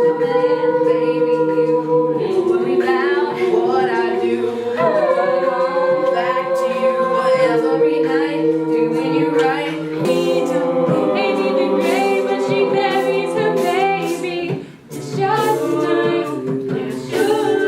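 A cappella vocal group singing in harmony without instruments, several voices holding sustained chords that change every second or two, with a short break near the end before the singing resumes.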